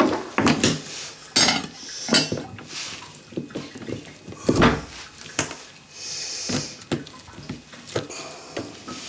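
Irregular clinks and knocks of metal hardware and tools being handled, with a few short scraping sounds in between.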